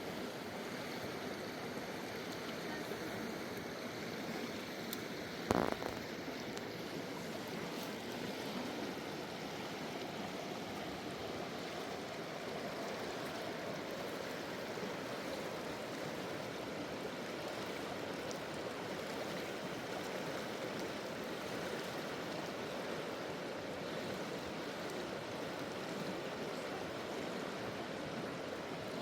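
Mountain river rushing steadily over rocks, with one sharp knock about six seconds in.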